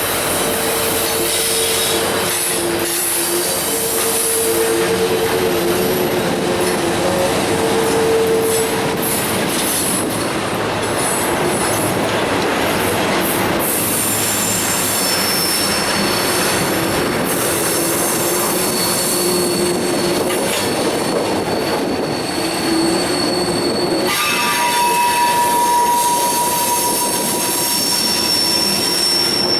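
Freight train cars rolling past with steel wheels squealing against the rails: several sustained squeal tones that shift pitch over a continuous rolling rumble, with a higher squeal setting in near the end.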